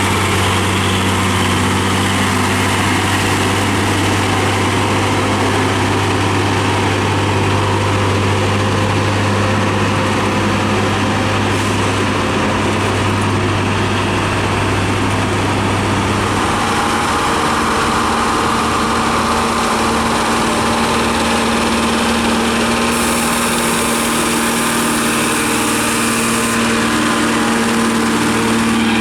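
Heavy diesel truck engines running steadily under load, with a low engine note that changes pitch about halfway through. A high hiss sounds for a few seconds near the end.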